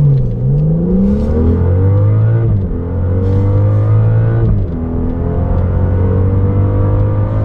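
Car engine under hard acceleration, its pitch climbing through the gears with two quick upshifts, about two and a half and four and a half seconds in, then rising more slowly in the next gear.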